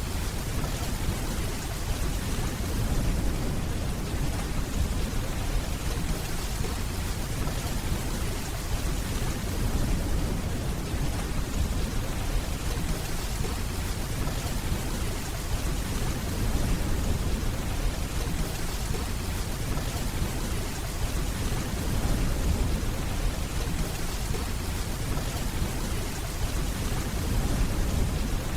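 Steady rainfall with a continuous low rumble of distant thunder underneath.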